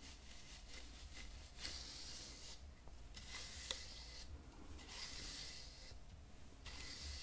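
Slow strokes of a bristle hairbrush, each a soft hiss lasting about a second, coming about every one and a half seconds. There is one sharp click about halfway through.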